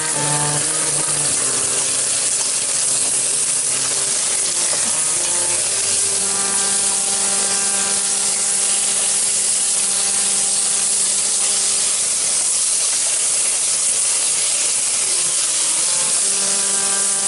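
Okra sizzling steadily in poppy-seed paste in a steel kadai, with a metal spatula stirring and scraping the pan. Soft held notes of background music sound under it from about six seconds in.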